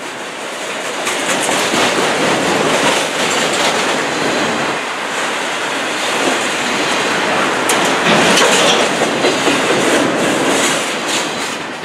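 Loaded autorack freight cars rolling past close by: a steady rush of steel wheels on rail, with clattering clicks as the wheels cross the rail joints.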